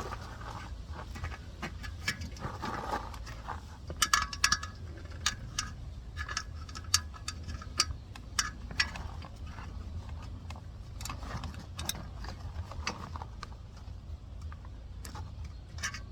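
Irregular light metallic clicks and clinks from small metal parts and tools being handled while an inner tube's valve stem is worked through a dirt bike wheel rim. There is a quick cluster of clinks about four seconds in, over a steady low hum.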